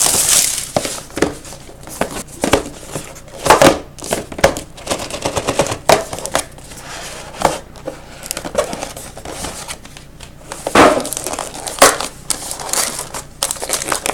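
Plastic wrapping crinkling and tearing as a sealed box of trading cards is opened, in irregular crackling rustles.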